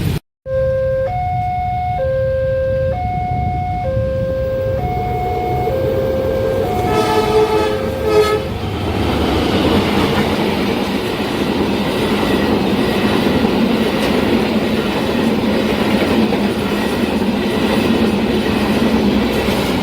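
Level-crossing warning alarm alternating slowly between two tones. About seven seconds in a train horn sounds for a second or so, and then the train runs past with a steady rumble of wheels on rails.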